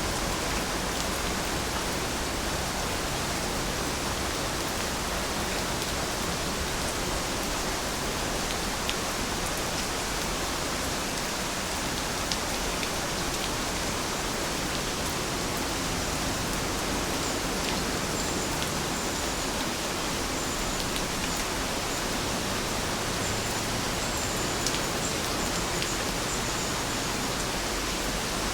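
Steady rainfall, an even hiss with scattered sharper ticks of individual drops striking a surface.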